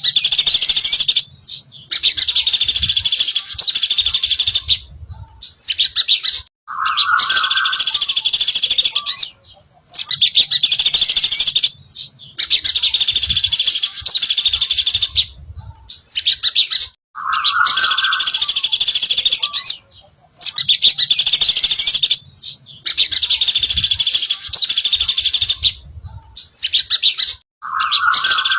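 A sogon dasi trotol songbird singing loud, high, rapid trilled phrases over and over, each a second or two long with short pauses between. Now and then a phrase starts with a lower note.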